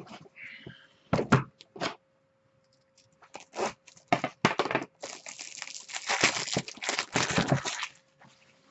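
Plastic shrink wrap being torn off a sealed box of Panini Select basketball cards and crinkled, after a few handling knocks. The crackling tear is loudest and densest in the last few seconds.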